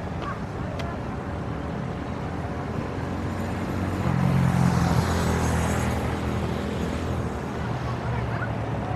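City street traffic: a motor vehicle passes close by, its engine and tyre noise swelling to a peak about halfway through and then fading back into the steady traffic hum.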